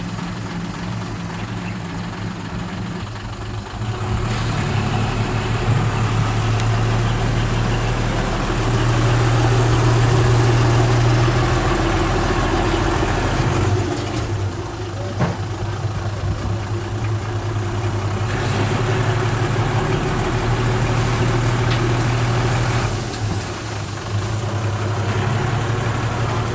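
Bulldozer's diesel engine running, its drone growing louder for several seconds at a time as it takes load and easing off in between. There is a short clank about halfway through.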